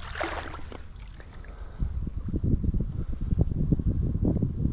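Insects trill steadily on one high note. From about two seconds in, louder irregular low rustling and knocking close to the microphone, like handling noise, rises over the insects.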